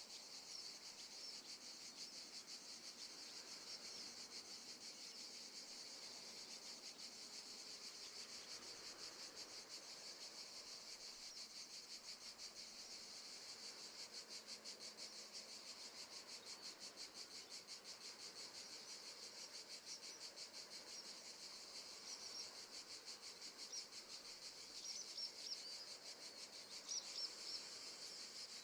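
Faint, steady chorus of crickets chirping in a fast, even pulse from a nature-sounds background track, with a few short bird chirps near the end.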